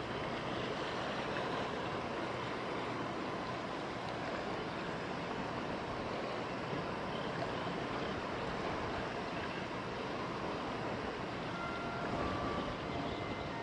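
Small high-speed passenger boat running in the harbour: a steady rush of engine noise and churned water.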